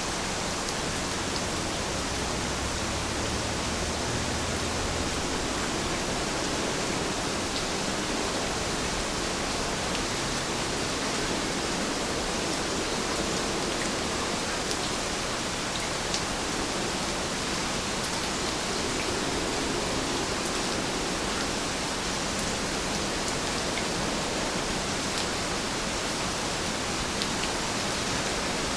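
Heavy rain falling steadily, a dense even hiss with scattered drop ticks. A brief low rumble comes in the first few seconds.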